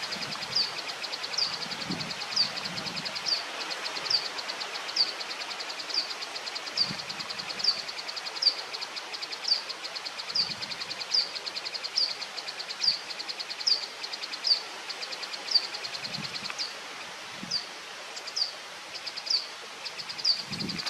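A bird giving a short high chirp over and over, about once a second, over a steady high buzzing trill.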